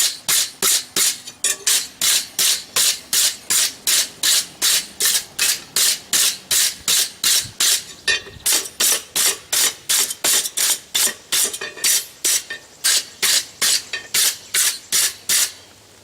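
Steel bar being worked with fast, even hand strokes, about three a second, dry and scraping rather than ringing. The strokes thin out near the end.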